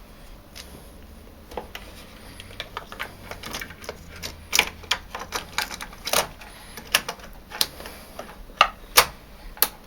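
Tumble dryer condensate pump parts clicking and knocking irregularly as they are handled and refitted, the clicks growing louder and more frequent about halfway through.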